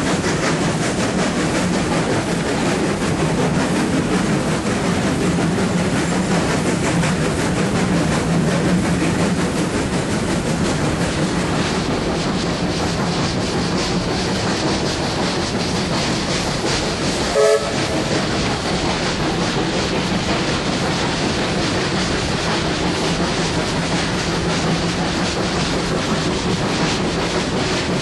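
Steam-hauled passenger train running, heard from an open carriage: a steady rumble and rattle of wheels and carriage on the rails. One brief sharp sound stands out about two thirds of the way through.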